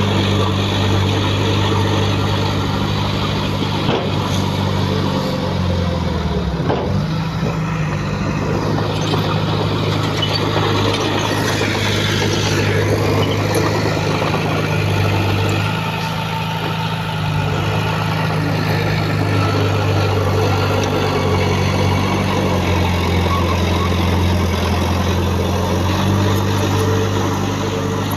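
Diesel engine of heavy earthmoving machinery (bulldozer or dump truck) running under working load. Its pitch sags and recovers about six seconds in, then drops lower with a slight fall in loudness around sixteen seconds before picking up again.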